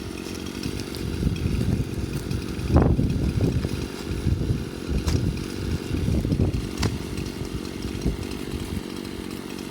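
A barely working chainsaw running as it cuts into a rotted dead tree trunk, with a few sharp knocks over it.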